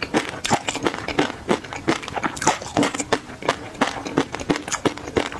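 Close-miked chewing of crunchy peanut-and-garlic chili sauce: wet, crisp crunches at about three a second.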